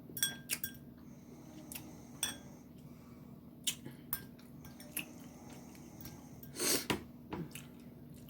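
Eating utensils clicking against a plate in scattered sharp taps, with one louder, longer noisy sound about two-thirds of the way through.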